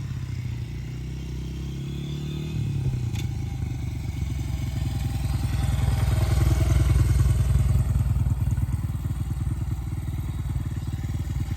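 Honda CRF80 dirt bike's small four-stroke single-cylinder engine running as it is ridden. Its pitch steps up about two and a half seconds in, and it gets louder toward the middle as it is throttled up.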